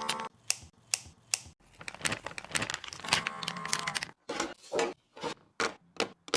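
Packaging crinkling and tearing, with a run of light clicks and knocks of containers being handled.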